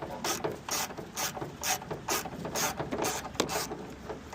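Mechanical ratcheting in short, even strokes, about two a second.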